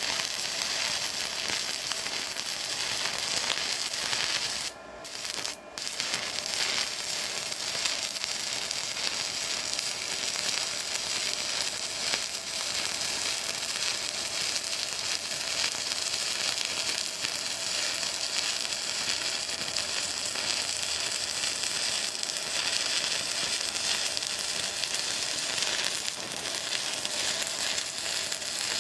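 Stick-welding arc on a 6013 electrode, crackling and sizzling steadily. The arc drops out twice, briefly, about five seconds in, then carries on evenly.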